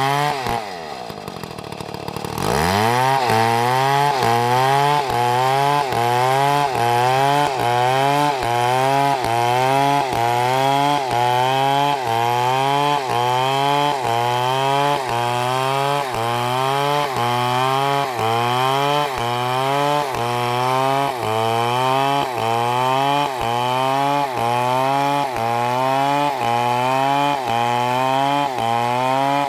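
Big chainsaw cutting into a large tree trunk. The engine drops toward idle at the start, is throttled back up after about two seconds, then runs at full throttle with its pitch dipping and recovering a little faster than once a second as the chain bites into the wood.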